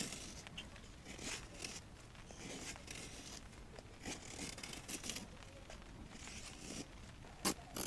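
Irregular rustling and crinkling of material being handled, with one sharp click near the end.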